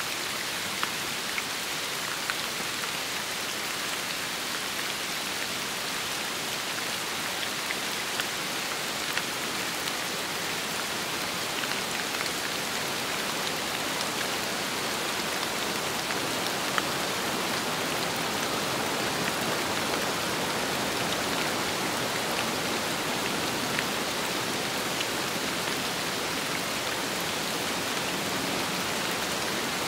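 Steady rain falling, with occasional sharper drop hits.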